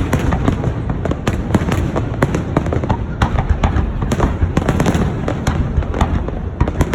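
Fireworks display going off: a dense, continuous barrage of sharp cracks and bangs, several a second, over a constant low rumble of booms.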